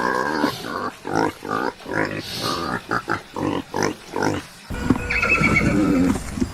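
A horse vocalising: a run of short, choppy calls, then after a cut about two-thirds through, a longer whinny.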